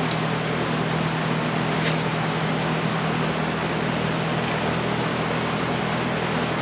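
Steady whirring hum of a running fan, with a couple of faint ticks.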